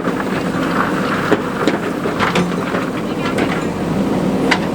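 Diesel engine of construction machinery running steadily, with scattered metallic clicks and knocks over it.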